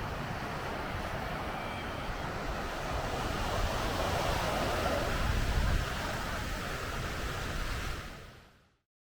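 Wind buffeting the microphone, with road rush, on a moving motorcycle trike. It is a steady noisy rush that fades out to silence about eight seconds in.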